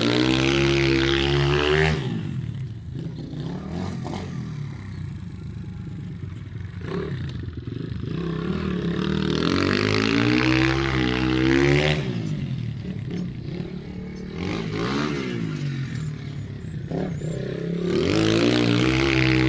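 Pit bike engines revving as the bikes pass close by, with the pitch rising and falling as the throttle opens and closes. It is loud three times, about nine seconds apart, and fainter in between as the bikes go round the far part of the figure-8.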